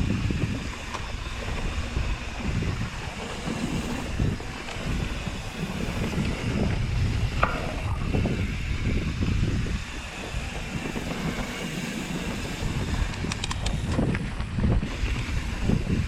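Wind buffeting the microphone of a camera on a mountain bike riding a dirt trail, with the rumble of the ride underneath. A few quick rattles or clicks come near the end.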